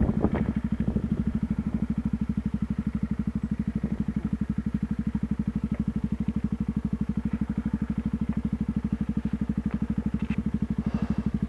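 Yamaha WR125R's single-cylinder four-stroke engine idling steadily with an even, rapid pulse, and a few sharp clicks right at the start.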